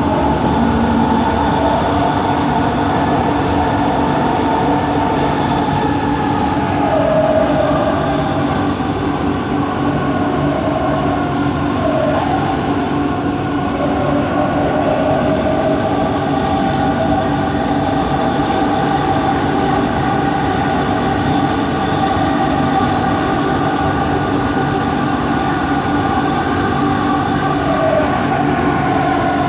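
Bombardier Innovia ART 200 train running along the line: the steady hum and whine of its linear induction motor drive, several tones held over the running noise, with a higher whine that wavers and dips in pitch a few times.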